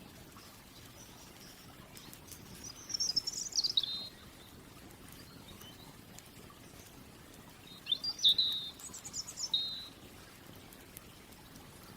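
A songbird sings two short phrases of quick, sweeping high chirps, the first about three seconds in and the second, longer and louder, about eight seconds in, over a quiet steady outdoor background.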